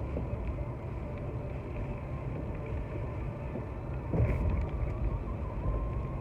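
Steady low road and engine rumble of a car driving on a highway, heard inside the cabin, with a brief louder bump about four seconds in.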